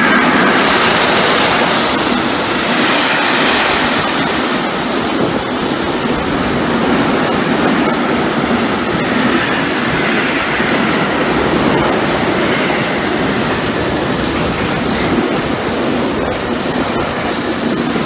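Intermodal freight train hauled by an E652 electric locomotive passing close by: a steady, loud rush of wheels and wagons on the rails.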